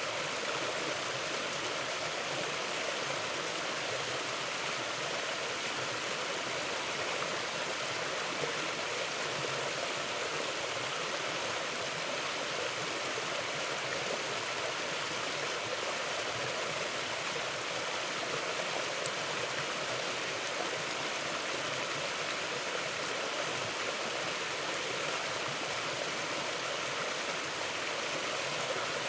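Mountain river flowing: a steady, even rush of running water that does not let up.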